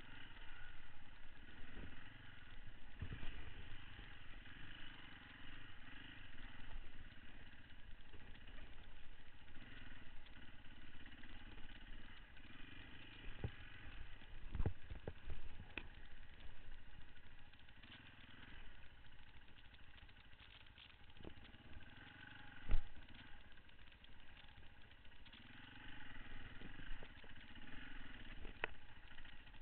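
Beta 525 RS four-stroke single-cylinder enduro bike engine running at low revs that rise and fall as it is ridden over a rough trail. Scattered knocks and rattles come from the bike jolting over bumps, with one sharp, loud knock about three-quarters of the way through.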